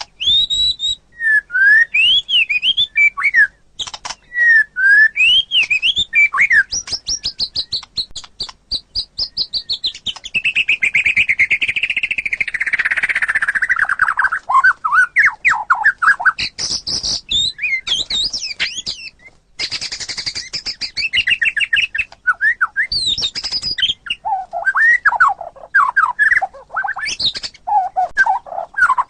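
White-rumped shama singing a loud, varied song of whistled notes and rapid trills, with a long run of fast notes sliding down in pitch about halfway through.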